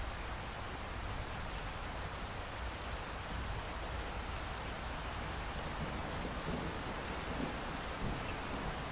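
Steady rainfall, an even hiss of raindrops. A low rumble, like distant thunder, comes in during the second half.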